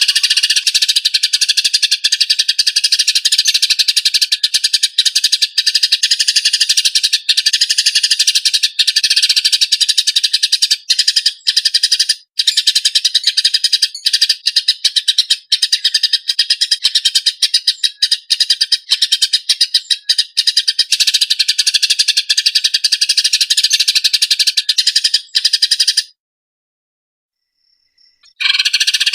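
Eurasian tree sparrows giving harsh, rapid, tightly packed fighting calls in a dense chattering stream. It breaks off about 26 seconds in and picks up again just before the end.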